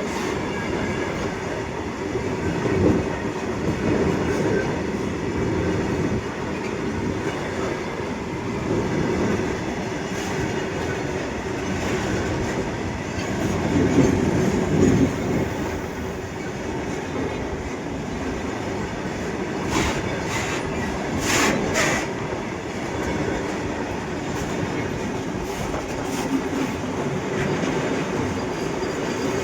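Goods train wagons rolling past on the rails with a continuous rumble and wheels clattering over the track. A run of sharp metallic clicks comes about two-thirds of the way through.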